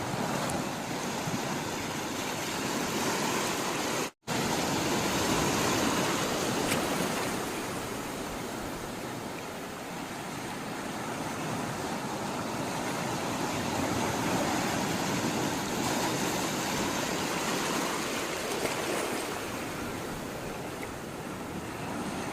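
Sea water rushing and washing, rising and easing in slow surges, with a split-second gap of silence about four seconds in.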